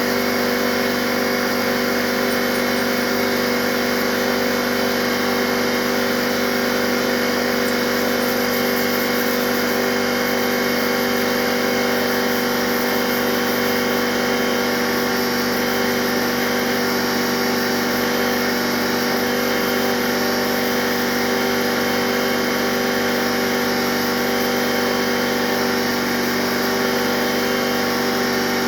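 Pneumatic DA (dual-action) sander running steadily, a constant hum over air hiss, as it feathers out stress cracks in the paint of a plastic bumper.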